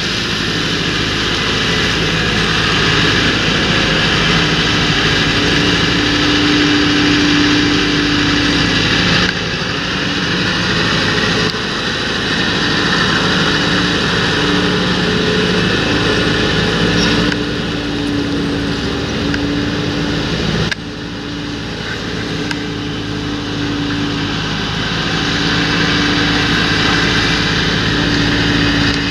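Large John Deere tractor's diesel engine running steadily in the field, with a pitched engine note over a broad rushing noise. The level and tone shift abruptly a few times.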